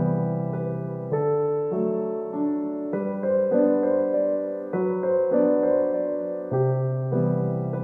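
Background solo piano music, slow and gentle: held chords with a sustained bass, changing about every second.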